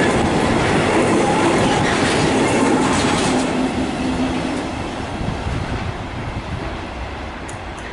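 A train passing through the station, its wheels rattling over the rails, growing steadily quieter after about three and a half seconds as it moves away.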